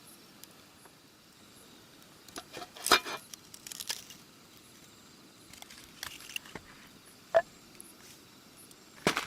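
Scattered light knocks and clicks of things being handled, with one short ringing clink about seven seconds in, over a faint steady background hiss.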